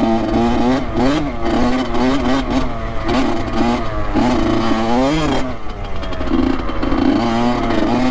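Honda CR85's 85cc two-stroke single-cylinder dirt bike engine revving up and down as the throttle is worked over snow. Its pitch climbs and drops again and again, with one longer rise and fall about five seconds in.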